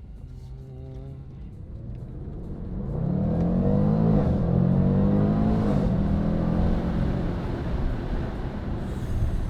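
Range Rover Sport SVR's supercharged 5.0-litre V8 accelerating hard. The engine note swells from about two seconds in, rises and dips in pitch through the gears, then eases off to a steadier drone.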